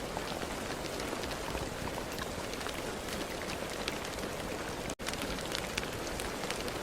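Steady rain, many separate drops striking sharply over a dense hiss. About five seconds in there is a split-second gap in the sound.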